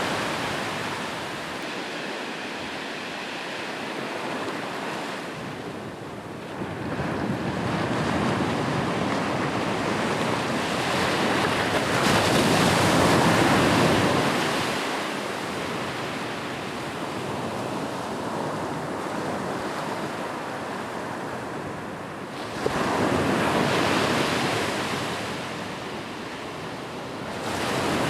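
Ocean waves breaking and washing up a beach, the surf swelling and falling back in slow surges every several seconds.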